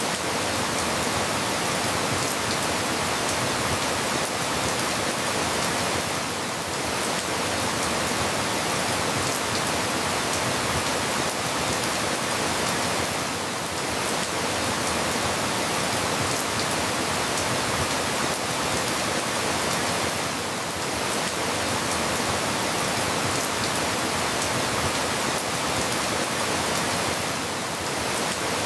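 Steady rain falling, an even hiss with no separate events, easing slightly about every seven seconds.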